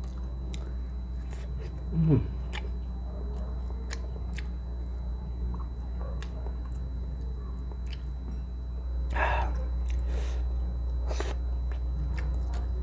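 Close-miked person eating by hand, chewing soft milkfish and rice with wet mouth clicks and smacks. About two seconds in comes a short low hum of the voice that falls in pitch. A steady low background hum runs underneath.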